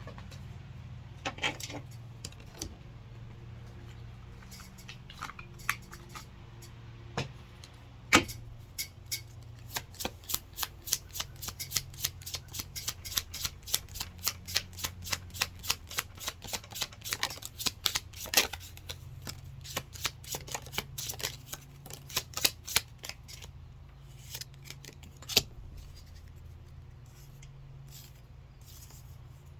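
Tarot cards being shuffled and handled: scattered sharp clicks, then a fast run of card clicks about three a second through the middle, thinning out near the end, over a steady low hum.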